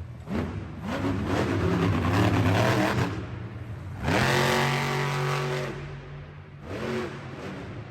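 Monster truck engine revving hard in several bursts, the pitch climbing with each throttle stab; the longest rev starts about four seconds in, rises and is held before dropping away.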